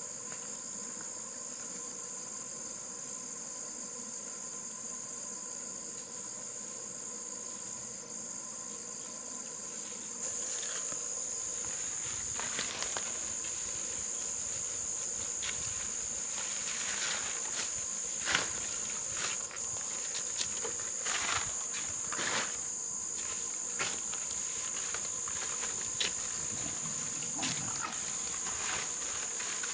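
Steady high-pitched insect chirring that gets louder about ten seconds in. From then on it is joined by scattered clicks and rustles close by.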